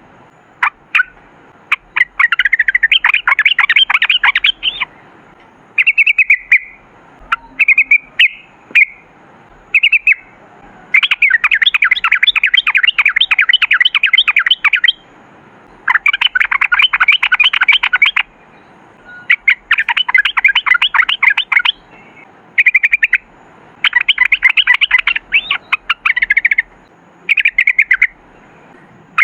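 Yellow-vented bulbul singing: short bubbly phrases alternating with several long, rapid runs of notes lasting a few seconds each, the long trill ("ropel panjang") that is prized in this bird's song.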